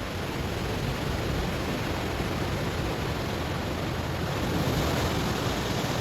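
Ocean waves breaking on a stony shore: a steady rush of surf that swells to its loudest about three-quarters of the way through and eases near the end.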